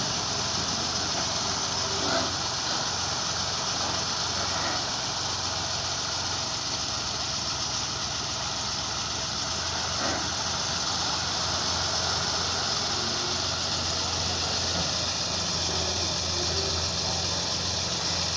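Heavy machinery engine running steadily at a low, even speed, with a couple of faint knocks.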